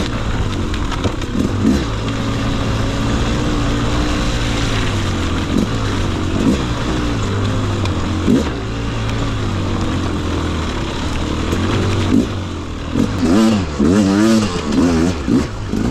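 Beta RR300 two-stroke single-cylinder enduro motorcycle engine, freshly rebuilt and being run in, pulling under riding load with its revs rising and falling. Near the end it revs up and down quickly several times.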